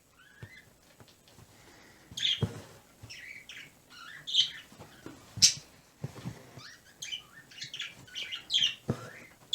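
Pet birds chirping in short, irregular calls, with a few sharp clicks mixed in.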